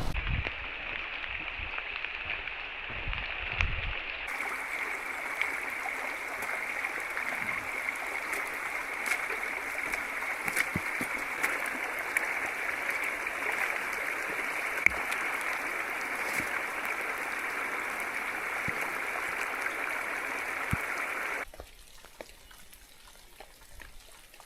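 Steady rush of running floodwater. It drops suddenly to a much quieter background near the end.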